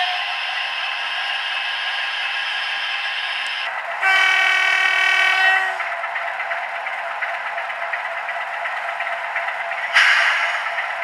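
DCC sound decoder in an OO gauge model diesel locomotive playing a diesel engine running steadily through the model's small speaker, so there is no bass. About four seconds in the horn sounds one note for just under two seconds, and near the end a sudden burst of noise starts and fades.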